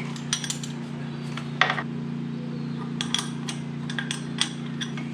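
Scattered light metallic clicks and clinks of hand tools working an exhaust stud back out of a motorcycle cylinder head, the sharpest about one and a half seconds in, over a steady low hum.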